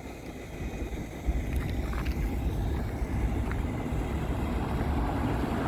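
Low rumble of passing vehicles, growing slowly louder toward the end.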